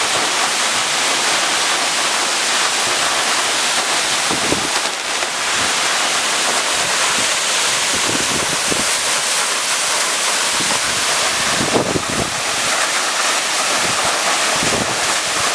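Waterfall rushing: a steady, loud roar of falling water, with gusts of wind from the spray buffeting the microphone now and then.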